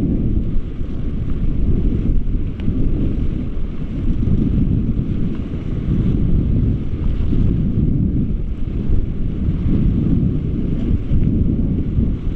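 Wind buffeting the microphone over the rush of river water, a steady low rumble that swells and eases without a break.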